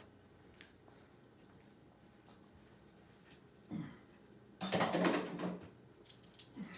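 A dog gives one short, noisy vocal sound lasting about a second, roughly two-thirds of the way in, with a fainter one just before it. Otherwise the room is quiet, with a few small clicks.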